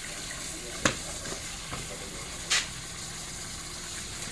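Steady hiss of water escaping from a leaking water line, with two sharp knocks, about a second and two and a half seconds in.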